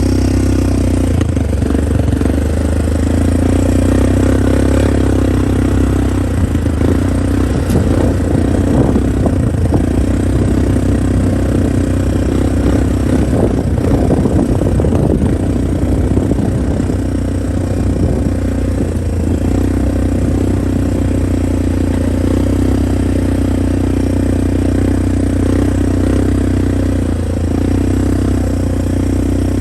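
An engine running steadily with a low, even hum, with a rougher, noisier stretch in the middle.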